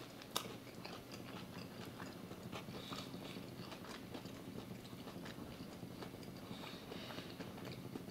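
A person chewing a mouthful of steak sandwich with breaded onion rings: faint chewing with small irregular clicks, and a sharper click just after the start.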